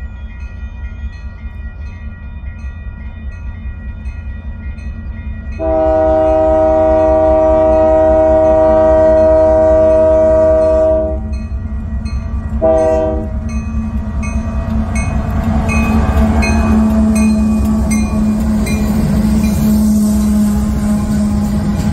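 Union Pacific diesel freight locomotive's air horn sounding one long blast of about five seconds and then a short one as the train approaches a grade crossing, with a crossing bell ticking steadily. The locomotive engines' rumble and the wheels' clatter grow louder as the train nears and passes close by near the end.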